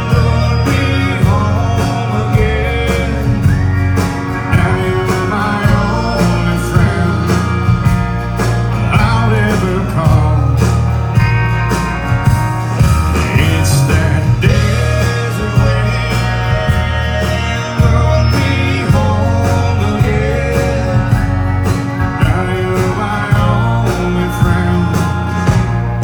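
Live country band playing an instrumental passage: guitars over bass and drums.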